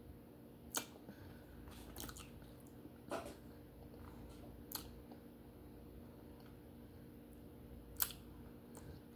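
Faint wet chewing and mouth clicks from eating baked duck eyes, with a few sharper smacks scattered through.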